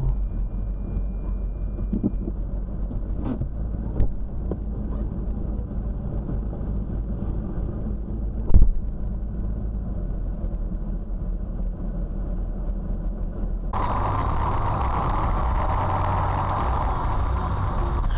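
Road and engine noise of a moving car heard from inside through a dashcam, a steady low rumble with a sharp knock about four seconds in and a louder one near the middle. Near the end the noise turns louder and hissier.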